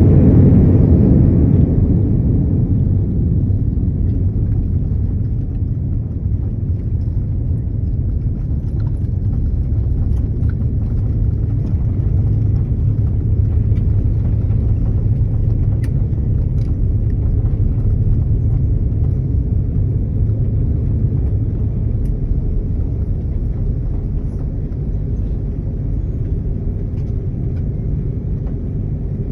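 Airliner cabin rumble just after landing: engines and wheels on the runway during rollout and taxi, a steady low rumble that eases off over the first couple of seconds and then holds level, with a few faint clicks in the cabin.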